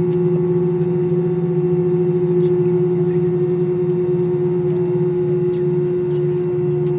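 Steady cabin hum of an Airbus A321 airliner, with a constant low two-tone drone and a few faint clicks.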